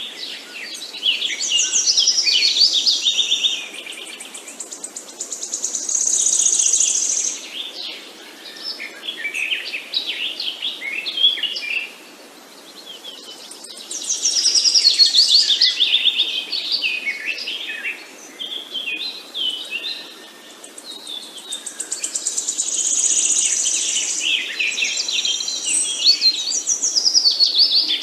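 Songbirds chirping and singing in busy, overlapping runs of quick chirps and trills that swell and ease off every few seconds, with short lulls between, over a faint steady outdoor background.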